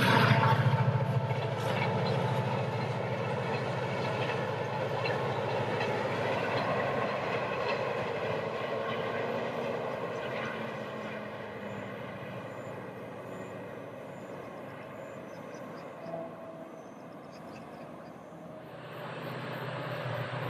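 Locomotive-hauled passenger train running past on the line, loudest at the start with a low hum and track noise, then fading steadily as it draws away. Near the end a new rumble starts to rise.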